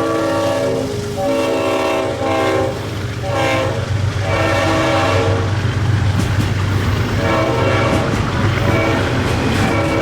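Diesel freight locomotive's air horn sounding a string of separate blasts, over the steady low rumble of the passing train.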